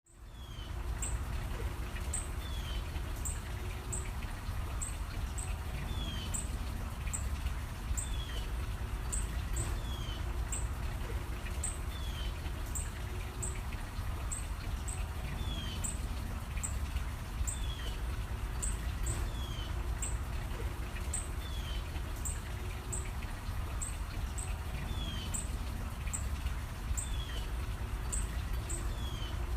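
Songbirds chirping: short high chirps repeating at an even pace, with a lower falling note every second or two, over a steady low rumble.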